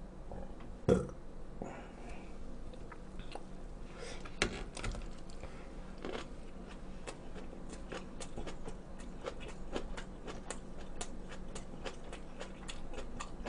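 Close-miked chewing of cold pork trotters, a run of many small, wet clicks of mouth and jaw. One short, loud mouth sound comes about a second in.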